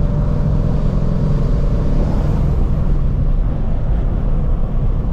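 Twin-turbocharged Mustang GT 5.0 V8 running under way, heard with road noise as a steady low drone; faint higher tones fade out about two seconds in.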